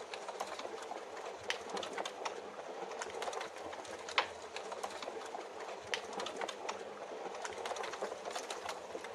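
Wood fire crackling with sharp, irregular pops over a steady hiss of rain.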